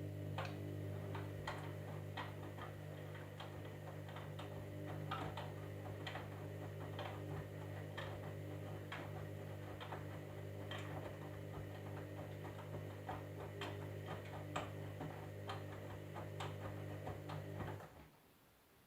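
Candy washing machine running with a steady hum, with irregular sharp clicks and knocks on top, one or two a second; the hum cuts off suddenly shortly before the end.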